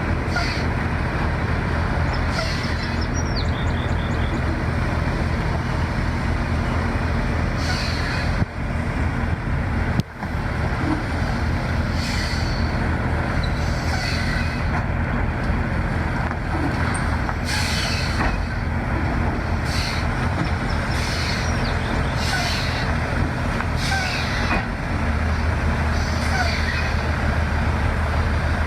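Large diesel engine running steadily with a low drone, with short hissing bursts recurring every couple of seconds and two brief dropouts around eight and ten seconds in.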